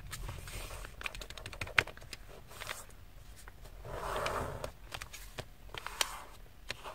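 A sheet of paper being folded by hand: crisp clicks and crackles as it is handled and creased, with a longer rustle about four seconds in.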